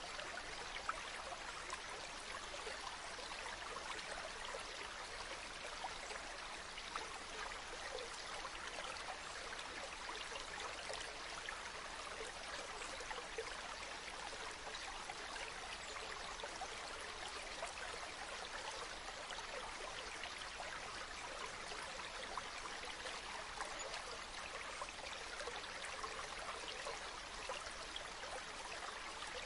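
Waterfall: a steady rush and splash of falling water, even and unchanging, with a fine crackle of droplets.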